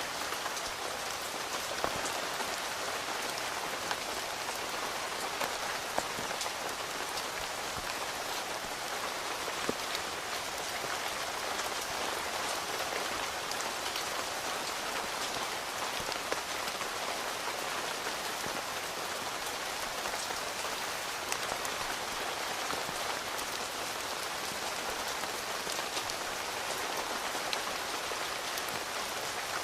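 Steady rain falling on a tent, heard from inside, with single heavier drops ticking sharply every few seconds.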